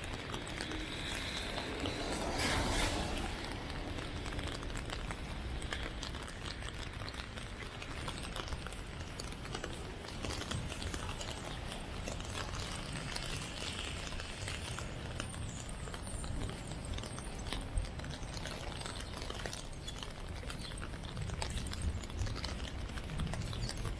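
Steady rainy city ambience: the hiss of rain and wet pavement with many small scattered ticks of drops. There is a louder whoosh about two to three seconds in.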